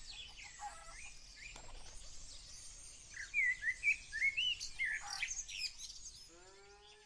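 Small birds chirping, a scatter of short rising chirps and twitters that is busiest in the middle; near the end comes a short lower pitched call.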